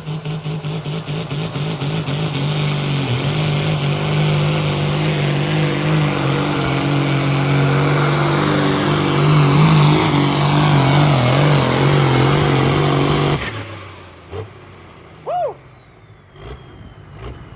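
Pulling tractor's diesel engine running hard at full throttle down the track. It pulses at first, builds to a loud, steady run for about ten seconds, then cuts off suddenly about thirteen seconds in as the pull ends.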